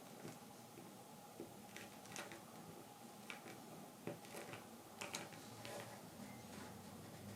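Knife tip scoring fine lines into wild cherry wood for kolrosing: faint, irregular little scratches and clicks.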